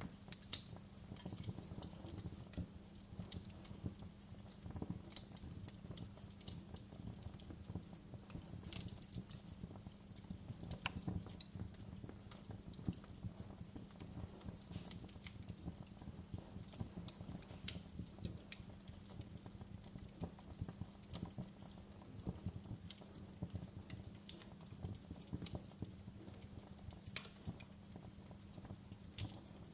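Wood fire crackling in a fireplace: a steady low rumble of burning with frequent irregular sharp pops and snaps from the wood.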